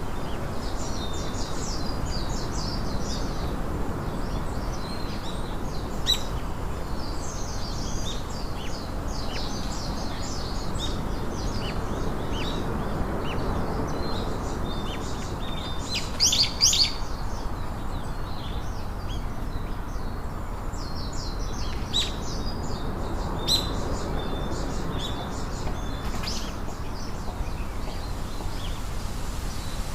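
Several birds chirping and trilling with short, high calls, the loudest cluster about halfway through, over a steady background hiss.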